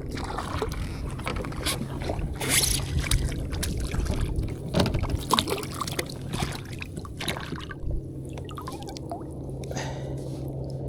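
Water splashing and scattered knocks and clicks around a fishing kayak while a trout is on the line, over a steady low hum.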